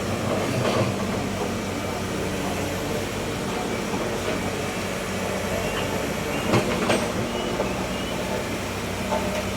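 Large diesel engine of heavy road-repair machinery or a truck running steadily, with a couple of sharp knocks about six and a half to seven seconds in.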